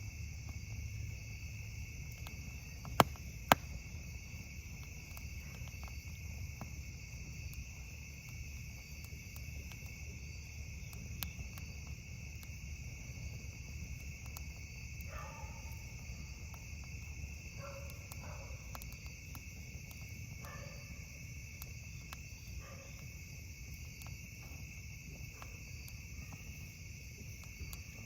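A steady night chorus of crickets, with a campfire crackling faintly underneath and two sharp pops about three seconds in.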